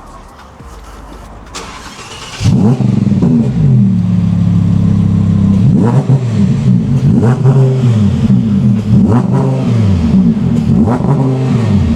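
Audi R8 Spyder's 5.2-litre naturally aspirated V10 revved through its exhaust. It comes in loudly about two and a half seconds in, then holds a steady running note between about five quick rev blips that rise and fall. Its revs are held back by a soft limiter.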